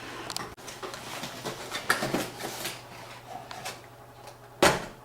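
Unboxing a retail CPU box by hand: packaging rustling and small clicks, with one sharp knock near the end.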